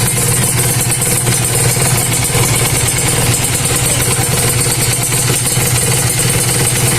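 Kawasaki Ninja RR two-stroke single-cylinder engine idling steadily, with a noisy metallic sound from the engine that the owner likens to steel; the mechanic puts the noise down to a worn piston and cylinder block.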